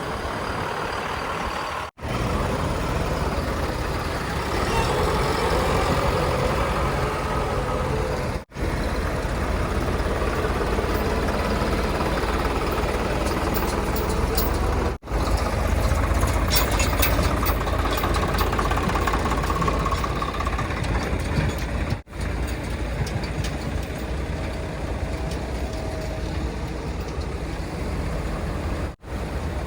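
Diesel engines of earthmoving machinery and tipper trucks running steadily, with a few light clanks around the middle. The sound cuts out for an instant about every six or seven seconds.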